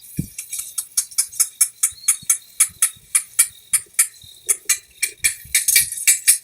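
A bird calling in a fast, even series of short, sharp, high notes, about five a second.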